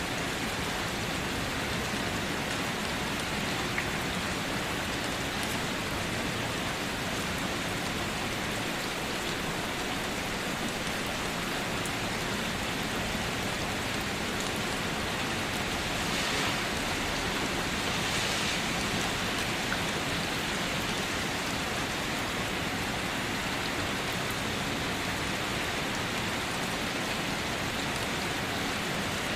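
Steady rainfall, an even hiss of many drops with no thunder, swelling slightly for a few seconds about halfway through.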